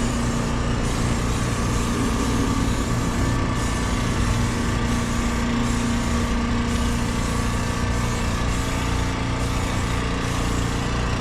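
Engine running steadily at a constant speed, with an even hum and no change in pitch.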